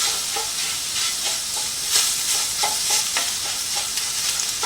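Beef sizzling as it browns in a skillet with orange juice and garlic, with a utensil clicking and scraping against the pan at irregular moments as the meat is stirred and broken up.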